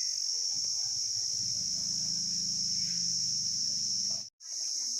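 Steady, high-pitched insect chorus droning without a break. A low hum joins it in the middle. The sound cuts out for a moment near the end, then resumes.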